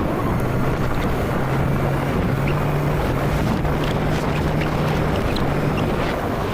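Motorcycle engine running while riding, a steady low note that shifts slightly up and down in pitch, under heavy wind noise on the microphone.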